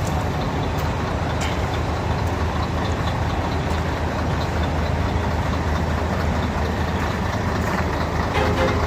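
Heavy truck's diesel engine running steadily, a continuous low rumble.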